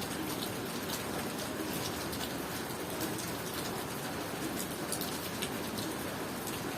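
Steady tropical rain falling, an even hiss with scattered short high-pitched ticks.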